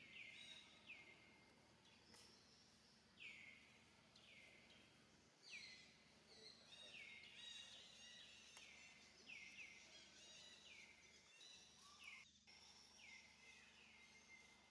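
Faint forest ambience of birds calling: many short falling chirps, about one a second, overlapping one another over a quiet steady background.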